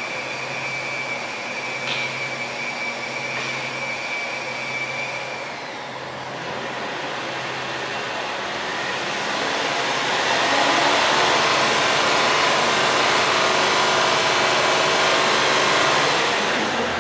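Nissan Elgrand Highway Star engine and exhaust running, with a thin steady high tone over it for the first five seconds or so. About nine seconds in it is revved up and held louder for about six seconds, then drops back toward idle near the end.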